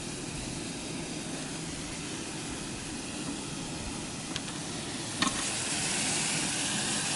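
Vegetables sizzling in a cast-iron Nitori skillet. About five seconds in there is a sharp metal clink, and the sizzle grows louder.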